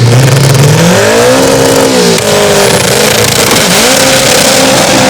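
Drag car's engine revving hard during a burnout to warm its tyres, with the tyres spinning. The revs climb about a second in, drop, dip again, then climb and hold high near the end.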